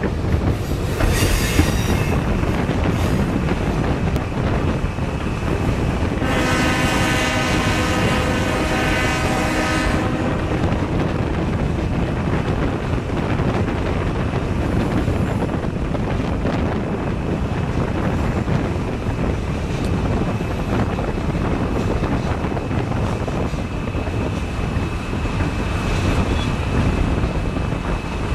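Passenger train rolling along, heard from aboard: a steady rumble with wind noise, and one long blast of the locomotive's air horn about six seconds in, held for some four seconds. A thin, faint high squeal sets in during the last third as the train pulls into the station.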